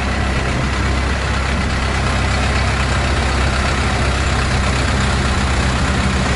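Long-tail boat engine running steadily: a constant low drone over a loud, even hiss.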